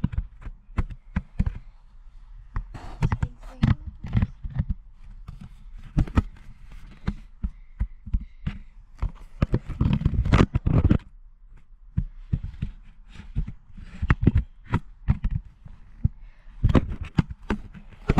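Irregular low thumps and knocks of footsteps and of the handheld action camera being jostled while it is carried along.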